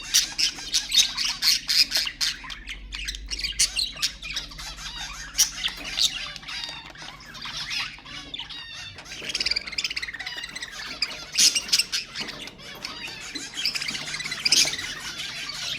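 Budgerigars chattering, with many rapid, overlapping chirps and squawks.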